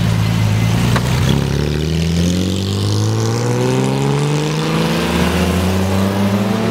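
Classic convertible cars driving off, among them a Triumph TR6: engine note steady at first, then rising for several seconds as a car accelerates through a gear, easing back near the end.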